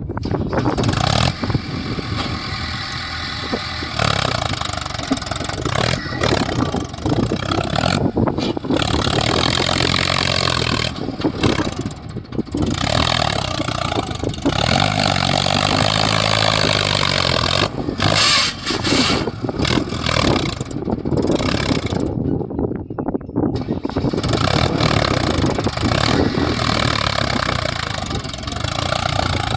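Heavy diesel engines of a tractor and a JCB backhoe loader running and revving under load, the engine pitch rising and falling twice as power is applied and eased off.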